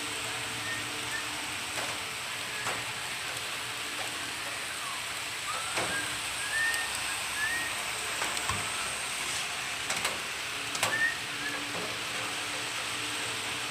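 HO-scale model trains running on the layout: a steady hiss of small wheels and motors on the track, with scattered sharp clicks and a few short, high squeaks. A faint hum is heard at first and comes back near the end.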